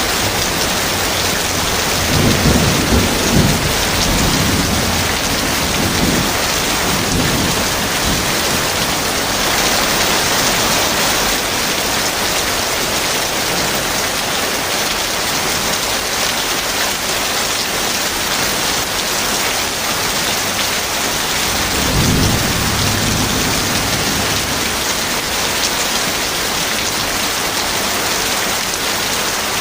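Heavy rain falling steadily, with thunder rumbling twice: a long roll starting about two seconds in, and a shorter one about three-quarters of the way through.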